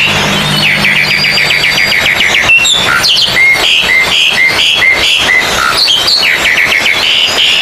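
Several oriental magpie-robins (kacer) singing over one another, as at a songbird contest: fast trilled note series, then a run of repeated whistled notes about three a second. A low steady hum runs under the first couple of seconds.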